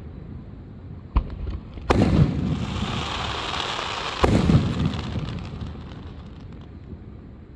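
Fireworks bursting: a sharp bang about a second in, then two loud booms about two and four seconds in, each with a rumbling echo, and a high hiss between them, dying away toward the end.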